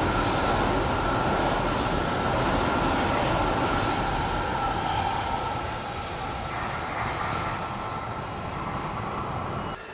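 Train running on the line: a steady rumble of rail noise with a faint high steady tone on top, easing a little in the second half and cut off abruptly near the end.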